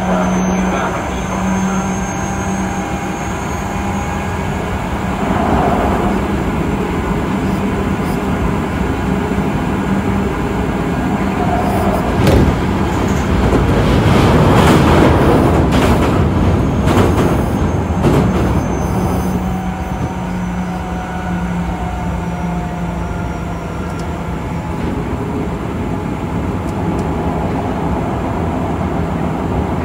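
On-board running sound of an Osaka Metro 66 series train with Toshiba IGBT inverter traction equipment, travelling between stations: continuous wheel and rail rumble with a steady low hum from the traction equipment. The hum fades out in the middle while the rumble grows louder for several seconds, then returns.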